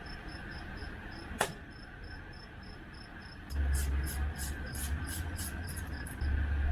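Crickets chirping in a steady, even rhythm, with a single click just under halfway. From about halfway a louder low rumble sets in with a quick run of sharp clicks over it.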